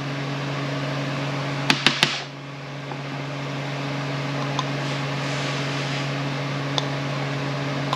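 Steady background hum, with a quick cluster of three or four sharp metallic clicks about two seconds in, as parts of an impact wrench are handled while a part is pushed out of its housing.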